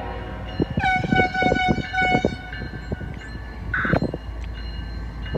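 Auto rack freight train rolling past, its wheels clacking irregularly over the rail joints. A horn sounds once from about a second in, for about a second and a half.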